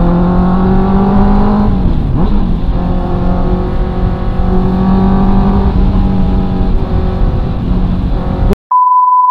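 Honda CB650R's inline-four engine pulling under acceleration, its pitch rising, then dropping sharply about two seconds in at a gear change before running steadily at cruising speed. The engine sound cuts off suddenly near the end, followed by a steady high beep.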